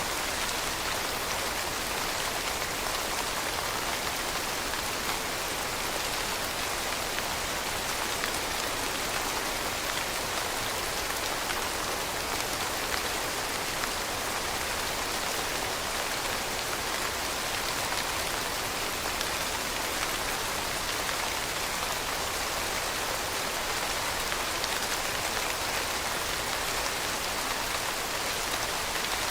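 Steady rain falling, an even hiss of drops hitting a surface with faint scattered patters.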